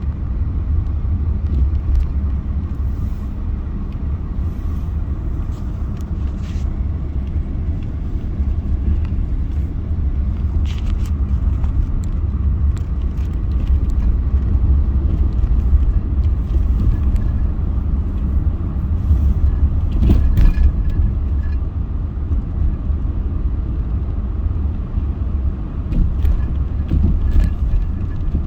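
Car driving, heard from inside the cabin: a steady low rumble of road and engine noise, with a few brief knocks from bumps.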